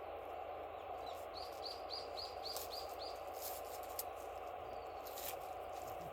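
A small songbird singing a quick run of about seven repeated high chirps, a little over three a second, over a steady hiss, with a few faint scattered clicks.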